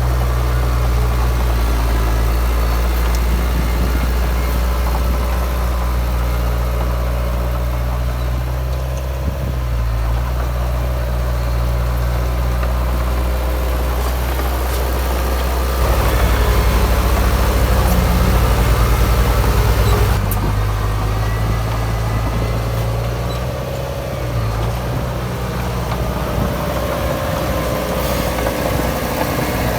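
Heavy diesel engine of earthmoving machinery running steadily, louder for a few seconds just past the middle.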